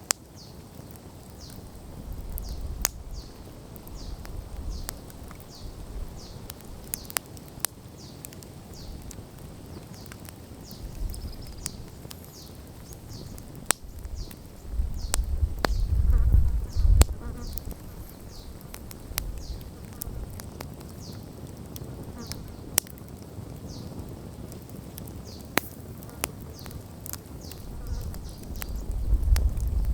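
Wood campfire crackling with scattered sharp pops, over low rumbling swells. A high, short chirp repeats about once or twice a second throughout.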